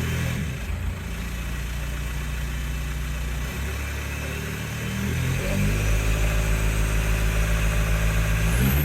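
Mk4 Jetta TDI's 1.9-litre four-cylinder turbodiesel running through a home-welded straight-pipe exhaust that leaks badly at the joints, giving a deep, truck-like sound. It idles, then revs up about five seconds in and holds the higher speed, with a brief high whistle near the end.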